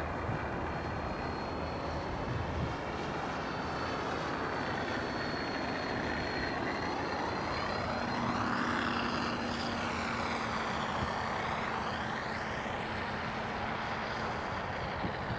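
Freewing P-51D Mustang RC warbird flying, its motor and propeller giving a steady drone with a thin high whine. It sweeps past about halfway through.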